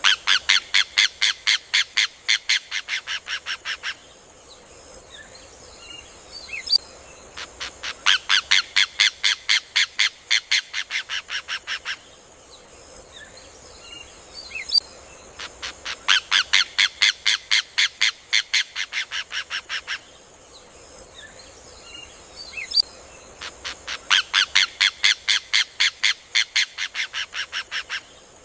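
Rufous hornero (João-de-barro) song: a loud, rapid series of sharp notes, about eight a second, that lasts about four seconds and trails off. The series comes four times, once every eight seconds.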